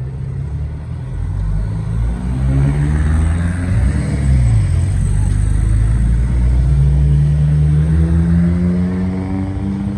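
Classic cars driving past one after another, engines pulling under acceleration. One car's note drops as it passes close about four seconds in, and the next car's engine note climbs steadily through the second half as it accelerates.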